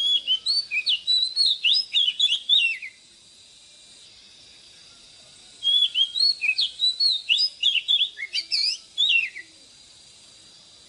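Oriental magpie-robin singing: two phrases of quick, varied whistled notes, the first lasting about three seconds and the second starting about five and a half seconds in and lasting nearly four seconds.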